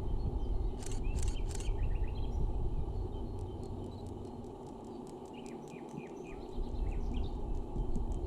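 Small birds chirping in short runs of quick notes, about a second in and again around six seconds, over a steady low rushing noise.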